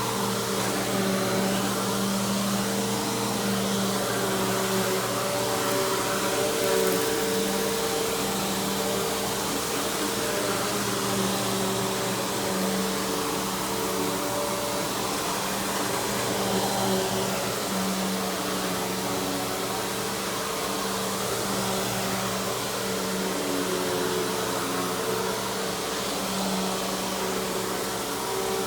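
Simplicity Symmetry Deluxe upright vacuum running steadily, its 12-amp single-stage motor giving a continuous rushing hum that swells and eases slightly.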